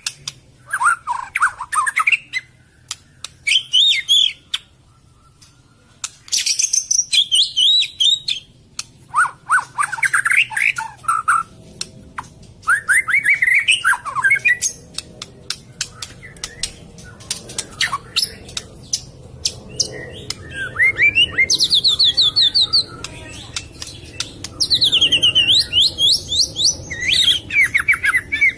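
Murai (magpie-robin) singing in bouts of quick, rippling repeated notes and high sweeping phrases, with short pauses between bouts.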